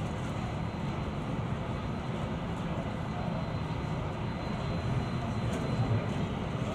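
Boeing 747-400 airliner noise: a steady low rumble with a faint high whine above it.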